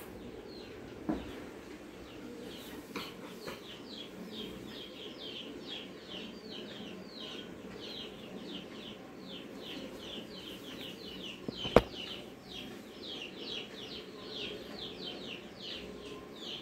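A small bird chirping over and over, quick high falling chirps about three a second, faint under a low steady room hum. A single sharp tap about two-thirds of the way through.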